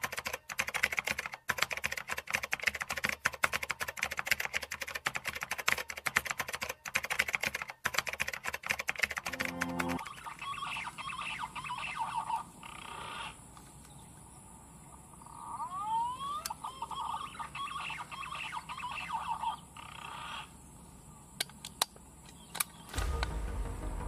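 For about the first ten seconds, a fast, dense run of clicks. Then birds call with whistled trills and rising and falling whistles, with a few sharp ticks near the end. A low rumble comes in about a second before the end.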